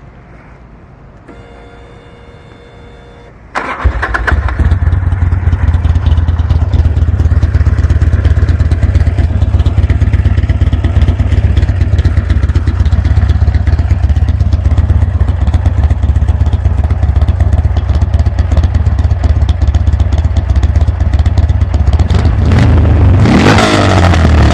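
2004 Buell XB12S Lightning's air-cooled 1203 cc V-twin breathing through a Special Ops exhaust, warm-started: after a brief steady tone, the engine fires about three and a half seconds in and settles into a loud, steady idle. Near the end one throttle blip rises and falls in pitch.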